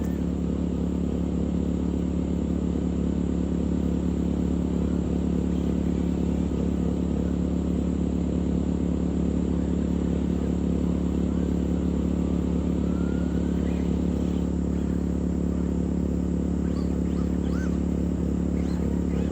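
A motor running at a steady speed, a low hum at an unchanging pitch, with a faint rising whine about two-thirds of the way through.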